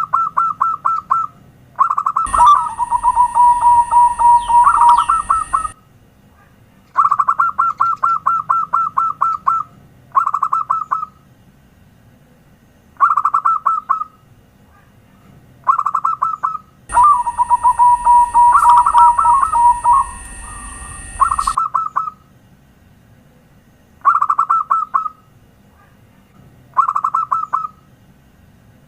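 Zebra dove (perkutut) song: repeated phrases of quick, rolling staccato coos, each lasting one to three seconds with short pauses between them. Twice, for a few seconds about two seconds in and again past the middle, a steady high-pitched whine and a low hum sit under the calls.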